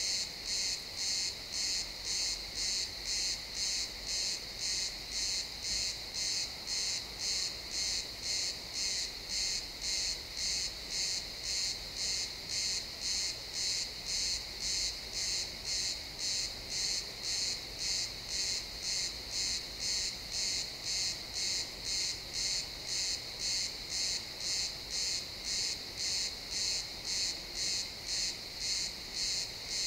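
Crickets chirping in a steady, even rhythm, about two chirps a second, high-pitched.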